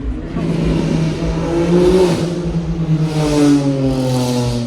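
Car engine revving as it accelerates, its pitch climbing and dropping twice.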